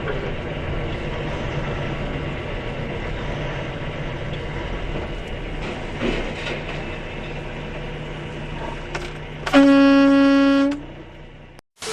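Steady vehicle running noise with a low hum. Near the end comes one loud horn blast of a little over a second, held on a single pitch, that cuts off sharply.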